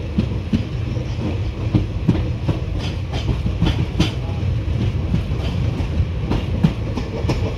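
Indian Railways passenger coach running along the track, heard from its open doorway: a steady rumble of the running gear with irregular clicks and knocks of the wheels over rail joints.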